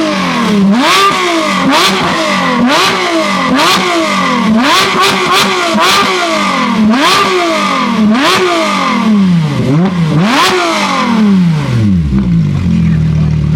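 A car engine revved hard over and over, about once a second, with sharp pops and cracks at many of the revs. It is loud enough to vibrate the floor. Near the end the revs drop away and it settles to a steady idle.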